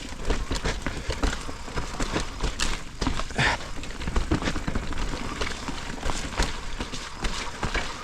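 Mountain bike riding down a rough dirt trail: tyre rumble with frequent irregular clatters and knocks as the bike rattles over roots and bumps.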